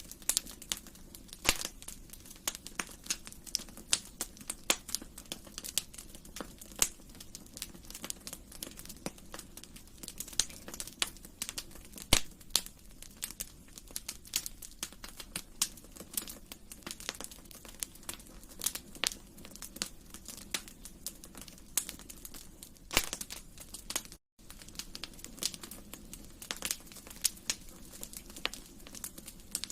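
Wood fire in a fireplace crackling: irregular sharp snaps and pops, some louder than others, over a steady low hiss of the burning. The sound drops out for a split second about four-fifths of the way through.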